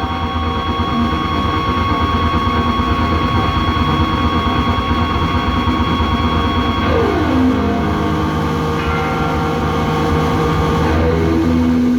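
Live harsh-noise music: a loud, dense wall of electronic noise with steady droning tones layered through it. About seven seconds in, a tone slides downward and settles into a lower steady drone, and another low drone comes in near the end.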